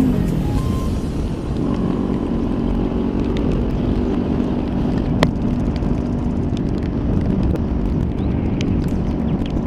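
Kawasaki Ninja 400 parallel-twin engine under way, dropping in revs over the first second and then holding a steady pitch, with wind rushing over the microphone. A single sharp click comes about five seconds in.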